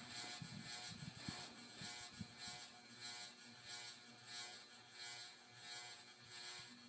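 Tatung Hugger ceiling fan slowing down to low speed, with a faint rhythmic pulsing once per turn that slows from about three a second to under two a second.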